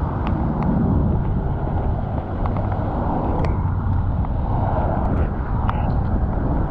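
Rumbling wind and road noise from riding a bicycle through city traffic, with scattered light clicks and rattles.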